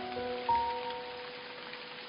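Steady rain falling, with slow, gently ringing notes of soft music over it; a new note sounds about half a second in and the notes fade slowly.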